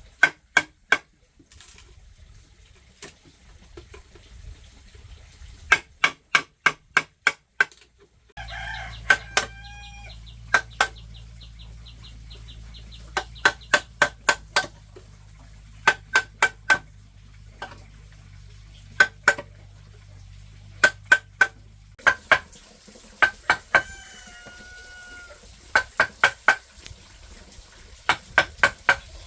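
Sharp knocks of a tool striking bamboo, coming in quick bursts of three to six blows with short pauses between, with chickens clucking now and then.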